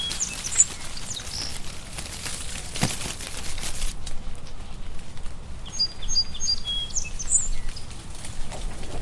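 Sparrows chirping: short, high chirps in scattered groups, one near the start and another about six to seven seconds in, over a steady background hiss.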